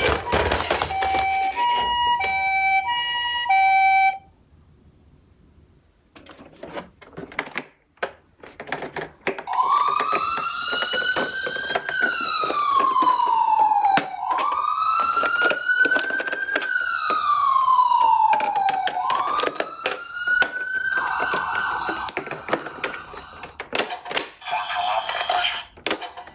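Toy ambulance minicar's electronic siren and sounds. It opens with a short tune of stepped electronic beeps, then, after a pause and some clicking, a wailing siren sweeps slowly up and down about three times. Sharp plastic clicks and clatter run throughout.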